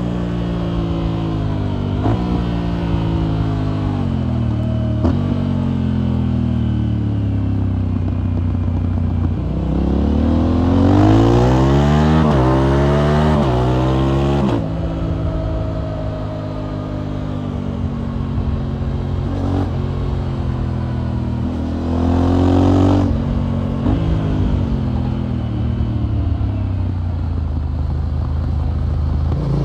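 Motorcycle engine and aftermarket exhaust under way, the engine note slowing in the first few seconds, then accelerating hard through the gears about a third of the way in, with the pitch climbing and dropping sharply at each upshift, before settling to a steady cruise with another short burst of throttle later on.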